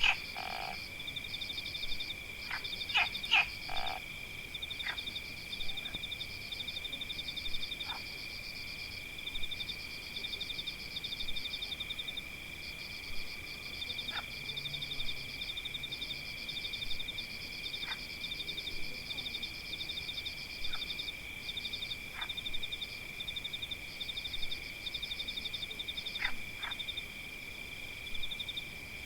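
Frog chorus: a steady, high-pitched trilling drone layered with fast pulsing calls, with short sharp chirps cutting in now and then, several together about three seconds in and a pair near the end.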